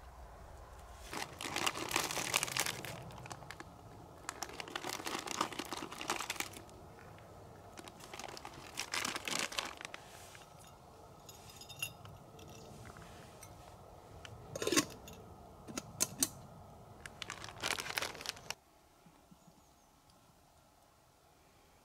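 Dry, crisp material crunching and crinkling in several bursts of a second or two each, with short pauses between.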